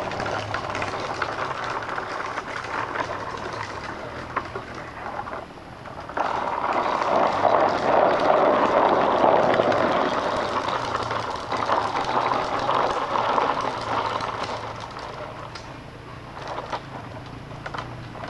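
Dirt bike engine running at a distance, getting abruptly louder about six seconds in, then fading away near the end.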